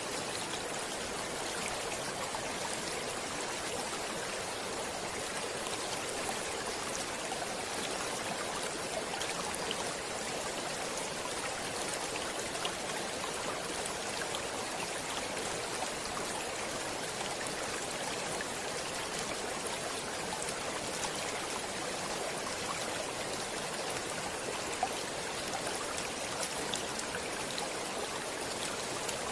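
Stream water flowing steadily, an even rush with faint scattered splashes.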